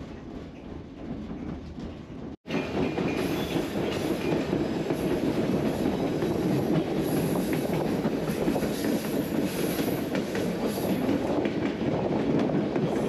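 White Pass narrow-gauge passenger train running along its track, a steady rolling rumble with scattered clicks. It breaks off briefly about two and a half seconds in and comes back louder.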